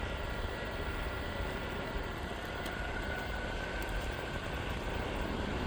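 Meepo Hurricane electric skateboard riding on pavement at speed: a steady rolling rumble from its honeycomb wheels on the road, with a thin high motor whine over it that rises slightly about three seconds in.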